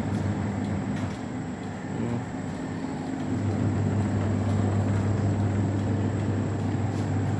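Washing machine running, its motor giving a steady hum that grows louder about three seconds in; the repaired machine working on its spin cycle.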